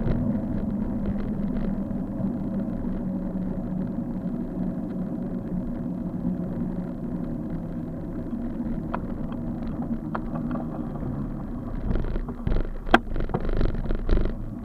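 Steady low rumble of riding along a road, with a faint steady hum. In the last few seconds it turns rough, with a run of rattling knocks and bumps.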